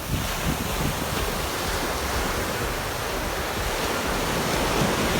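Rough sea surf: waves breaking and washing up the beach in a steady rush, with wind rumbling on the microphone.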